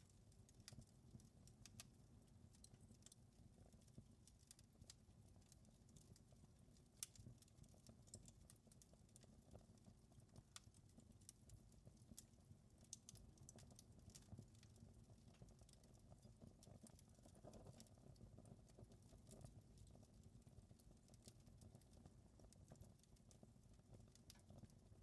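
Wood fire in a fireplace crackling faintly: irregular small pops and snaps over a low, steady rumble of the flames, with one sharper pop about seven seconds in.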